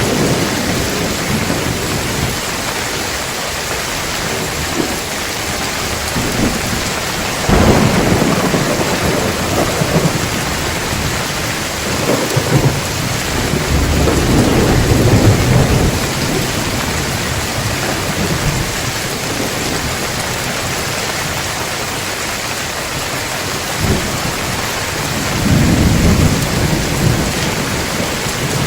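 Heavy rain falling steadily with rolls of thunder: a sharp thunderclap about a quarter of the way in, a long low rumble around the middle, and another rumble near the end.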